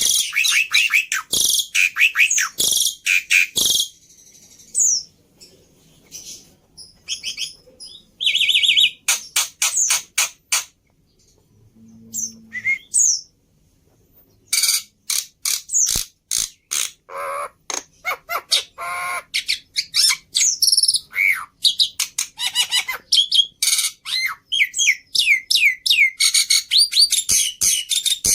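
Black-winged myna (jalak putih) song: quick runs of chirps, squawks and whistled notes broken by short pauses, with a dense, fast run of notes near the end.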